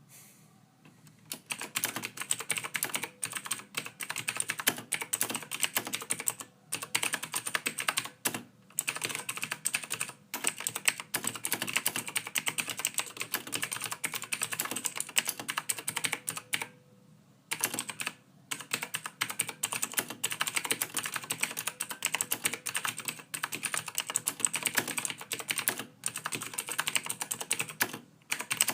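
Typing on a computer keyboard: a fast, soft stream of key clicks that starts about a second in and breaks off in short pauses every few seconds.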